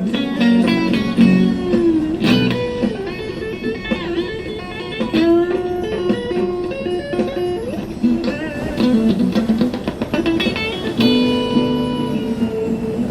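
Instrumental music led by an electric guitar playing a melodic lead line, with string bends and quick runs of notes over steady held backing chords.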